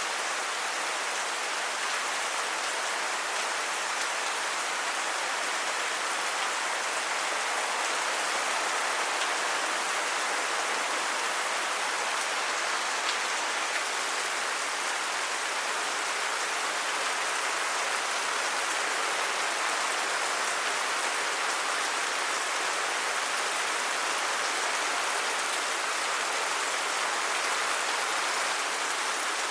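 Steady rain falling, a dense even hiss of raindrops on surfaces.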